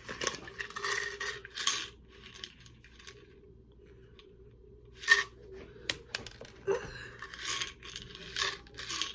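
Ibuprofen pill bottle being handled: tablets rattling and clinking against the bottle and its cap clicking, in short spells of clicks and rattles with a quieter lull in the middle.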